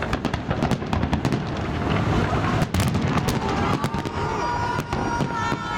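Fireworks salute going off: a rapid run of sharp bangs and crackles over a low rumble. A held whistling tone comes in about halfway through.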